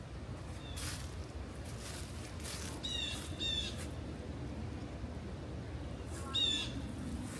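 A bird gives short, harsh squawking calls, two close together about three seconds in and one more near the end, over a steady low background rumble.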